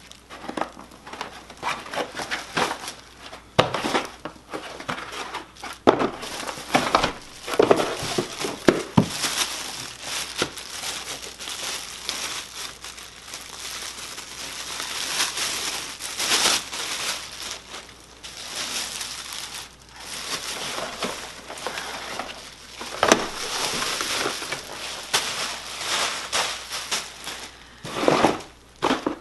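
Packaging being handled and pulled apart: plastic and cardboard crinkling and rustling almost continuously, broken by irregular knocks and a few louder thumps as parts are lifted out of the box.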